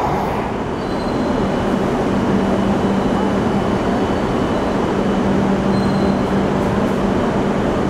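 Shinkansen train noise: a steady broad rumble with a constant low hum and faint high whines.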